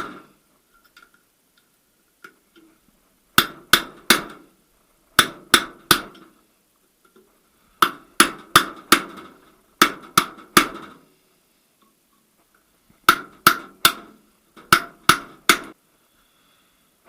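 Hammer blows on steel parts of a VAZ manual gearbox during assembly: six short runs of three or four sharp ringing strikes, about three a second, with pauses between.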